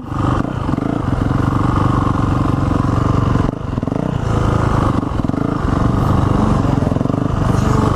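Dirt bike engine running at a steady, fairly constant throttle, easing off briefly about three and a half seconds in.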